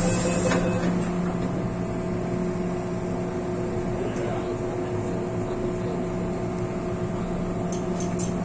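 Inside an MTR M-Train carriage: repeated door-closing beeps stop about half a second in, leaving the train's steady electrical hum and rumble.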